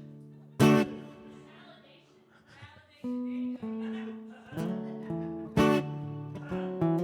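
Acoustic guitar playing the opening of a song. A loud strummed chord about half a second in rings out and fades, then single notes and further strummed chords follow.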